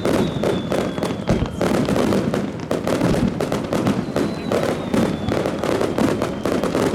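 Fireworks display going off in a dense, continuous barrage of rapid bangs and crackles, with a faint high whistle near the start and again about four seconds in.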